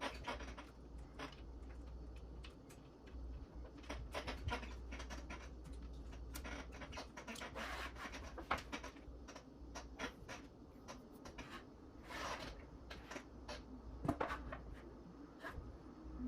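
Hands working on an RC helicopter's wiring and small parts: irregular small clicks, scratches and short rustles of plastic and wire, with a sharper click near the end.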